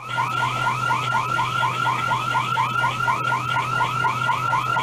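Electronic alarm-style tone: rapid chirps repeating about five times a second, each falling in pitch, over a steady low hum.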